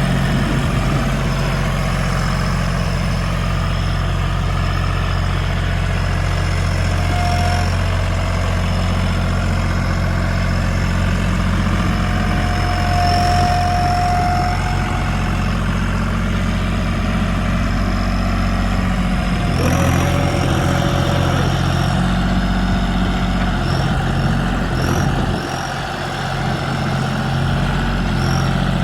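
Diesel tractor engine idling steadily, with a short dip in level about 25 seconds in.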